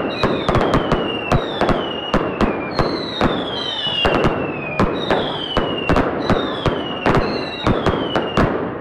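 Fireworks going off in rapid succession: a string of whistling shells, each a falling whistle lasting under a second, about one a second, over many sharp cracks and pops.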